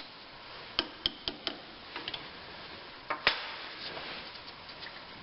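Light hammer taps driving a taper pin out of a lathe's lead screw mount: about eight short, sharp ticks at uneven spacing, the loudest a little over three seconds in.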